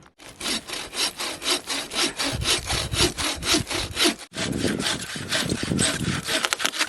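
Bow saw cutting through a bone-dry standing dead tree with rapid back-and-forth strokes, several a second. It pauses briefly about four seconds in, then carries on.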